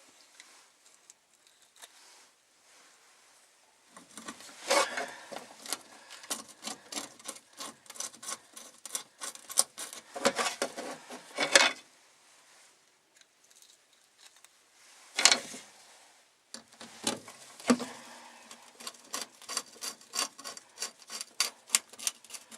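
Small retaining screws being started by hand around the fuel pump's mounting flange, with quick light clicks, rattles and scraping from the screws and tool. The sound comes in a long run, then a single sharp click, then another long run.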